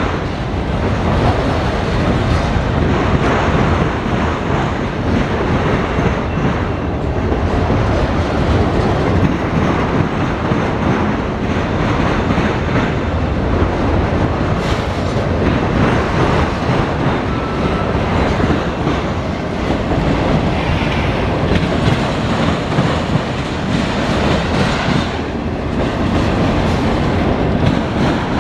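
Autorack cars of a CSX freight train rolling past, a loud, steady noise of steel wheels running on the rails.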